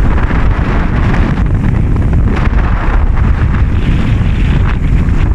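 Strong gusting wind buffeting the microphone, a loud, steady rumble with a wash of noise above it.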